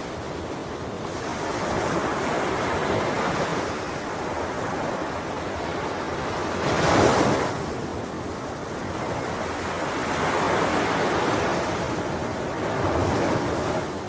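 Ocean waves breaking on a shore, a steady wash of surf that swells and ebbs. The biggest wave crashes about halfway through.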